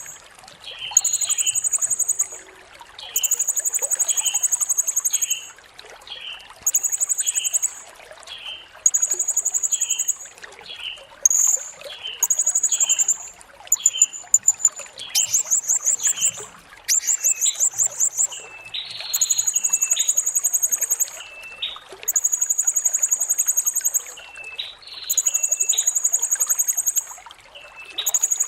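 Blue-crowned hanging parrot (serindit) calling: a very high, buzzy trill lasting a second or two, repeated about every two seconds, with short lower chirps in the gaps. Around the middle the trills break into faster, rapidly pulsed notes.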